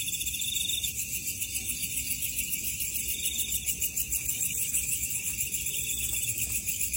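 Chorus of crickets and other insects: a steady, high, fast-pulsing trill, with a second, lower trill coming and going in short bursts every couple of seconds.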